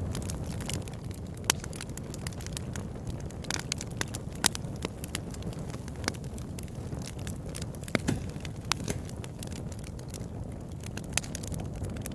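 Campfire burning with a steady low rumble and irregular sharp crackles and pops of burning wood.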